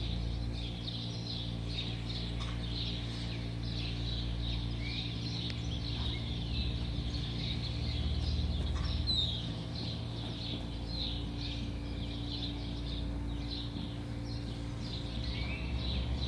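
Many small birds chirping busily, over a steady low hum.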